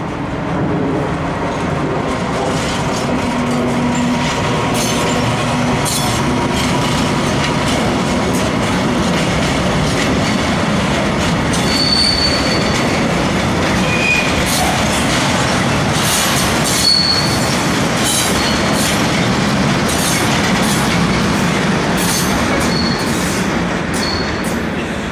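Short freight train of tank wagons passing close by: a MaK (Vossloh) diesel locomotive's engine running as it draws past, then steel wheels clicking over rail joints, with several brief high-pitched wheel squeals from the tank wagons.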